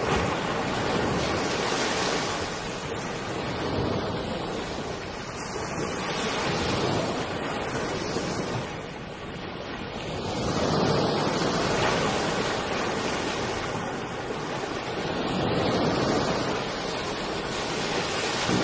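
Floodwater rushing in a steady, noisy wash that swells and eases every few seconds.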